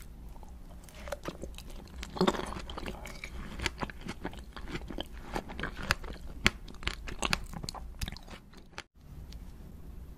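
Close-miked biting and chewing of a sugar-glazed candied strawberry on a stick: the hard candy shell cracks in many sharp crackles among wet chewing, with the loudest crunch about two seconds in. The sound drops out briefly near nine seconds, then softer chewing follows.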